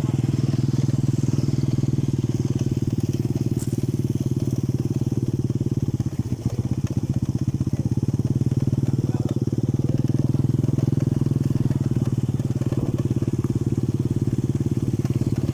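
A small engine running steadily at an even speed, with a brief dip about six seconds in.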